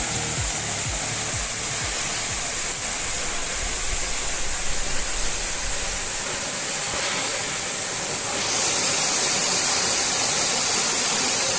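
Waterfall pouring down onto rocks: a steady, loud rush of water that grows a little louder about eight seconds in.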